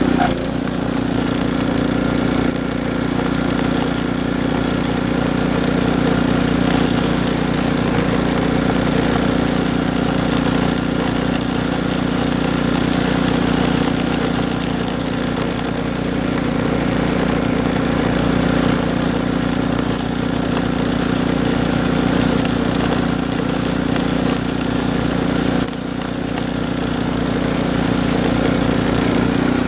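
Snowblower engine running steadily while clearing snow, its level dipping briefly late on.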